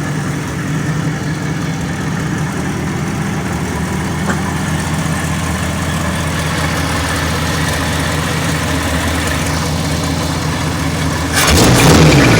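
1975 Ford F100's 302 V8 idling steadily through Cherry Bomb glasspacks on true dual exhaust. Near the end the throttle is blipped once, a short rev up and back down.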